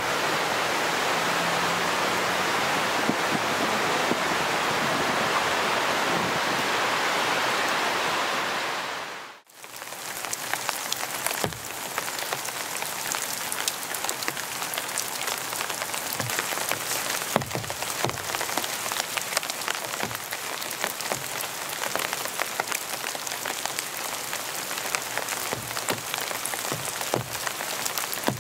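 Rain falling: first a dense, steady hiss of rain, then after a brief fade about a third of the way in, a sparser patter of individual drops ticking.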